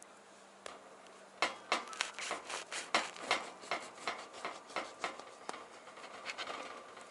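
Something being handled: irregular clicks and rustling, several a second, starting about a second and a half in and dying away near the end.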